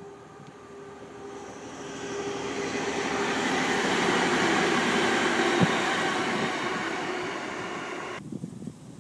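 Diesel train passing, growing louder to a peak about four to five seconds in and then easing away, with a steady engine tone under the rail noise; the sound cuts off suddenly about eight seconds in.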